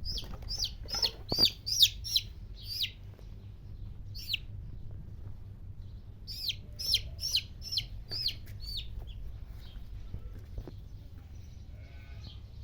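A bird repeatedly giving short, high-pitched chirps in quick runs of about three a second, with a pause of a couple of seconds in the middle.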